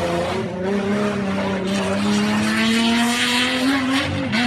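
Rally car engine running hard under load, its note climbing slowly as it accelerates, with a brief dip about four seconds in.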